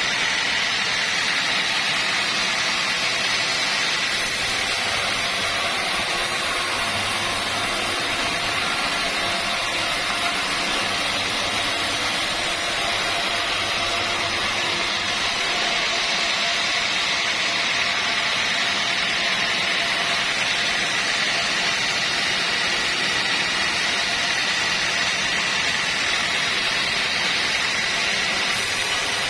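Sawmill machinery running steadily, a constant mechanical drone with a high whine.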